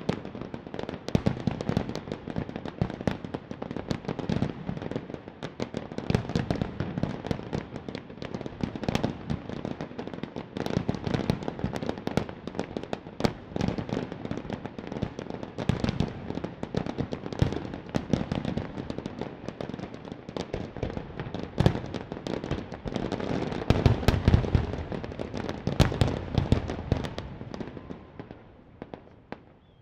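Fireworks display: dense, rapid bangs and crackling, with a cluster of heavier, deeper booms about four-fifths of the way through, dying away near the end.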